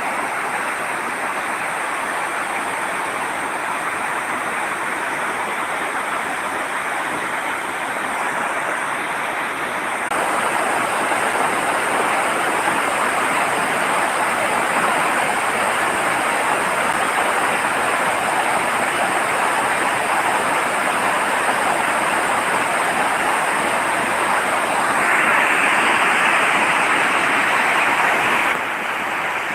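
Steady rushing of a fast-flowing river in flood, swollen by heavy rain. It gets louder about a third of the way in, louder still for a few seconds near the end, then drops back.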